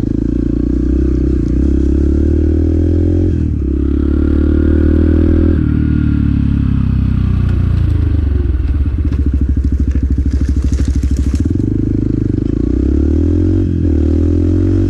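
Motorcycle engine riding along: steady revs with a brief break near four seconds in, then the revs fall away to a low, pulsing beat around the middle before picking up again about twelve seconds in.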